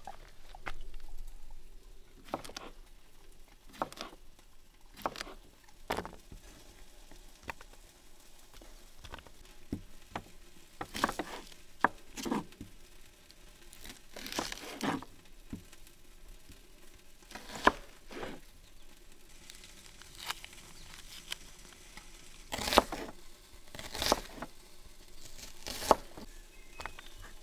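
Scattered sharp clicks and knocks with short bursts of rustling, as of small parts and materials being handled; irregular, about twenty separate sounds, with the loudest clusters in the middle and near the end.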